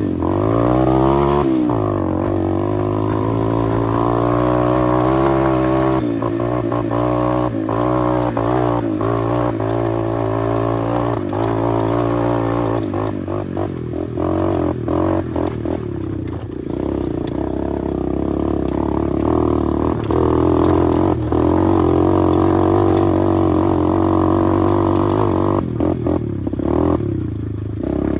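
A 125 cc pit bike's single-cylinder engine running under way as it is ridden, its pitch swelling up and back down about a second in, then holding a steady drone. Scattered short clicks and knocks run through the middle and near the end.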